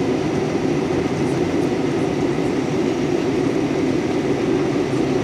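Steady, unchanging rumble and rush of a moving vehicle heard from inside its cabin.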